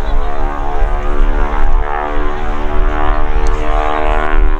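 Radial engine and propeller of a Boeing Stearman wingwalking biplane running at power in flight: a loud, steady drone with a deep rumble underneath.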